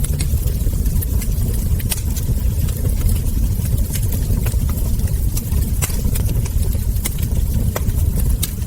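Wood fire crackling: irregular sharp pops and snaps from burning logs and embers, over a steady low rumble.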